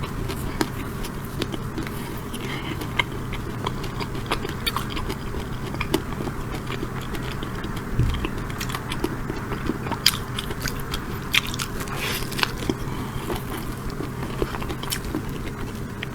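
Close-miked chewing of chocolate cake studded with nuts, with frequent small sharp crunches from the nut pieces.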